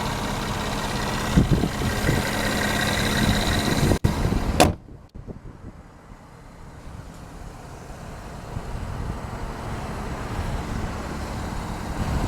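Car idling with a steady hum and faint whine, with a few low thumps about a second and a half in, then a sharp knock about four and a half seconds in, after which only a quieter steady hum remains.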